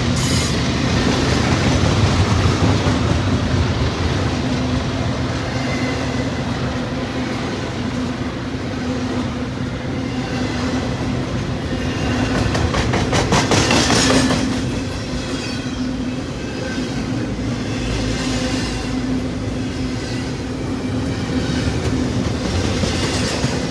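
Double-stack intermodal freight cars rolling past close by, their steel wheels clattering rhythmically over the rails with a steady rumble. A louder rush of clatter builds and peaks about thirteen to fourteen seconds in.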